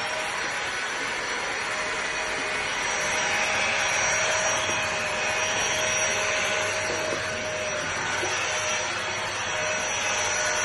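Airbot Hypersonics PRO cordless handheld vacuum cleaner running steadily at full speed, a loud rushing whine with a high steady tone.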